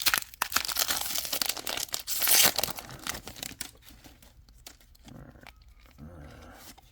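Foil Pokémon card booster pack wrapper being crinkled and torn open, with the loudest rip about two and a half seconds in, then quieter rustling as the cards are handled.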